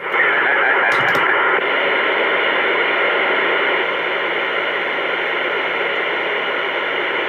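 CB radio static: a loud, steady hiss through the radio's speaker that comes on abruptly, with a couple of brief clicks about a second in.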